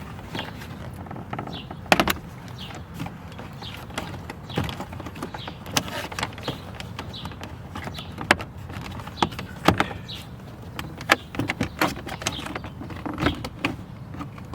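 Irregular plastic clicks and knocks as the fuse box cover in a 2017 Chevrolet Cruze's dash is worked loose by hand, the sharpest about two seconds in and a run of them in the second half, over a low steady hum.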